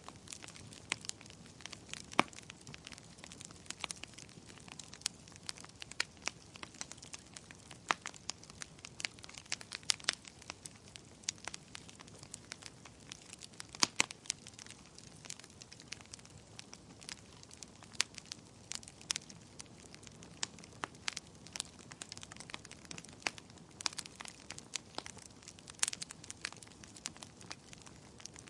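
Wood fire burning, with a constant soft hiss and irregular sharp crackles and pops, a few of them louder.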